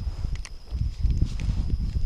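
Wind buffeting the microphone in uneven low rumbling gusts, with a couple of sharp clicks about half a second in.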